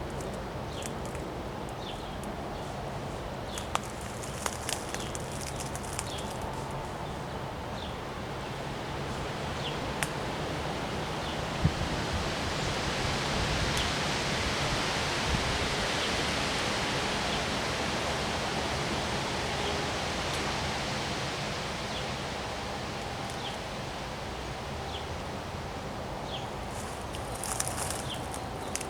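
Wind gusting through trees, a steady rush of rustling leaves that swells about a third of the way in and eases off again.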